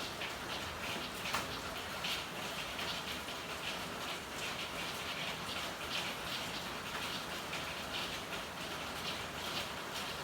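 Steady rain falling, a dense even patter of drops, with one sharper drop hit a little over a second in.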